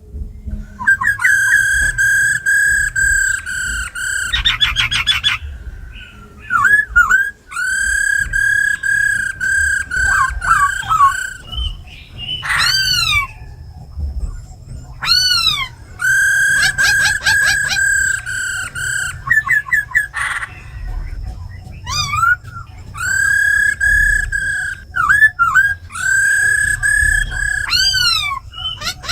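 Black laughingthrush (khướu mun) singing loud, clear whistled phrases in repeated bursts, with long held notes, sweeping up-and-down glides and a rapid trill about four seconds in.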